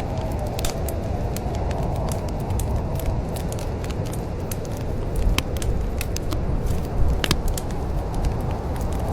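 Wood fire in a fireplace crackling: irregular sharp pops and snaps over a steady low rumble, with a couple of louder pops past the middle.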